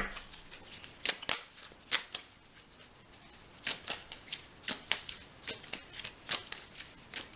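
Tarot cards being handled and shuffled: a series of irregular sharp clicks and flicks.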